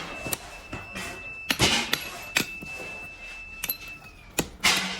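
Metal parts knocked and struck in a workshop making motorcycle kick-start levers: about five sharp metallic knocks, over a steady high whine that fades out near the end.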